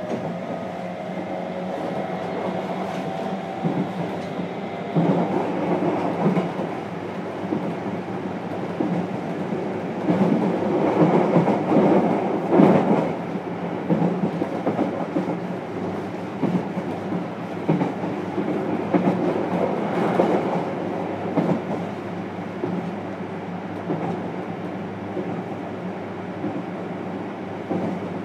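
JR Kyushu 303 series electric train running, heard from inside its motor car: a faint motor whine rises in pitch during the first few seconds, then steady wheel and track rumble with clickety-clack from the rails.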